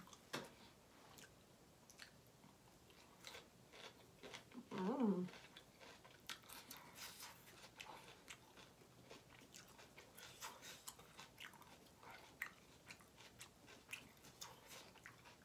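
Close-miked chewing of a mouthful of grilled kabob onion, with scattered crunches and wet mouth clicks. A short hummed vocal sound comes about five seconds in.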